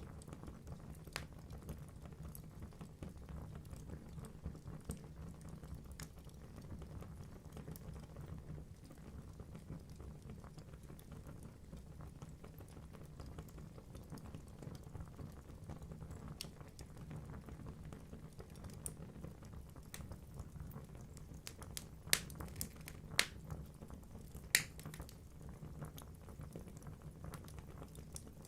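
Wood fire burning in a fireplace: logs crackling with many small snaps over a steady low rumble of the flames, and three louder pops near the end.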